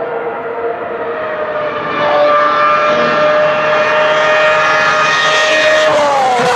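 Ferrari racing car engine running at high revs, growing louder about two seconds in as the car comes closer. Near the end its pitch falls as the car goes by or lifts off.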